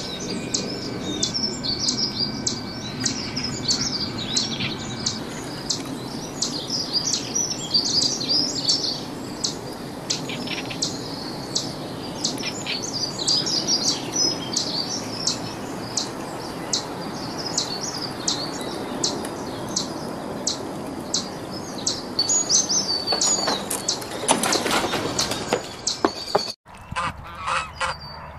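Small garden birds chirping in quick, high notes over a steady background hiss. About two seconds before the end it cuts to Canada geese honking.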